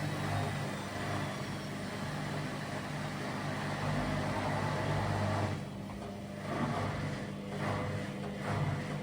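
Indesit Innex washing machine on its spin cycle, running with a loud noise made up of a low hum and a rushing sound. The noise drops briefly about six seconds in, then rises and falls in short pulses.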